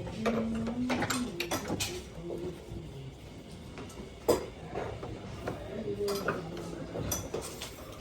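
Scattered metallic clinks and knocks of metal parts being handled, the loudest a little over four seconds in.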